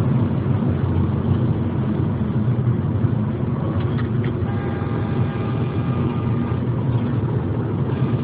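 Steady road and engine rumble of a car driving at highway speed, heard from inside the cabin. A faint steady tone joins about halfway through.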